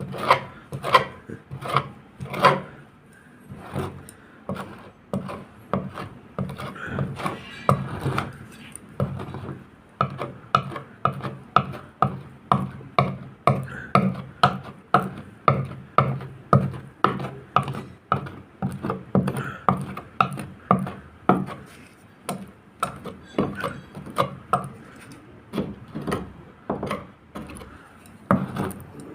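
Hand rubbing strokes on a boat hull, a rasping back-and-forth about two times a second, with a brief pause about eight seconds in.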